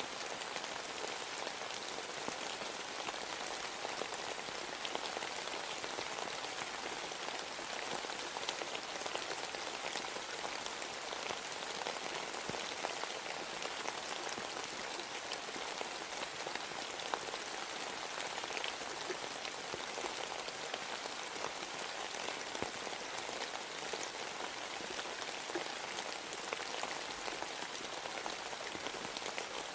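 Steady rain falling: an even, continuous hiss with many small drop ticks scattered through it.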